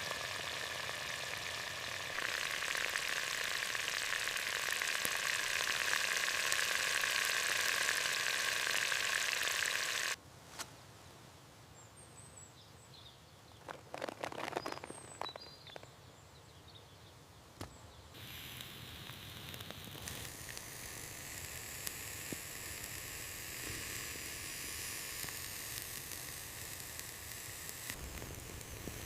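Food sizzling in a hot pan over a campfire, loud and steady for about ten seconds before it cuts off suddenly. A quieter stretch follows with a few short high chirps and a brief burst of knocks, then a softer sizzle comes back for the rest.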